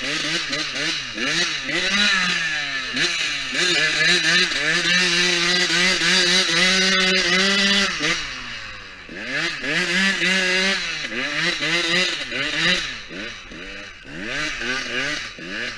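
Motocross bike engine revving hard and easing off again and again as it is ridden, its pitch climbing and dropping with throttle and gear changes. It is held at high revs for a few seconds in the middle, dips briefly, then climbs again.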